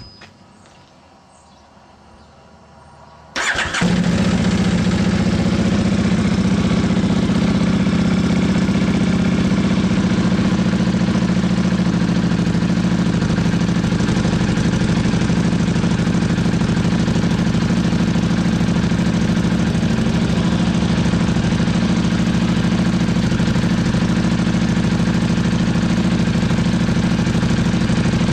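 Buell 1125CR's 1125 cc V-twin, fitted with a Free Spirits RS415 dual exhaust, starts about three and a half seconds in, catching at once, then runs loud and steady.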